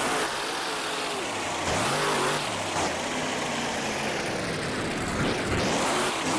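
Truck engine revving hard, its pitch rising and falling several times over a steady rushing noise.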